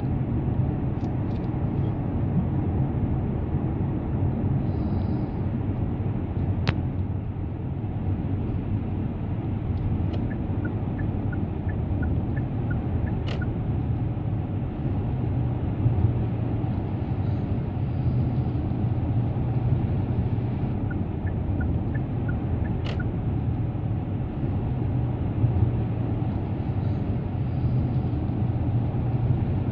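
Steady low rumble of a car cruising on an expressway: tyre and road noise with the engine underneath, holding an even level, with a few brief clicks.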